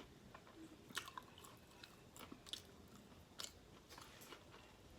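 Faint chewing of a mouthful of food picked up close to the mouth: irregular small wet clicks and smacks.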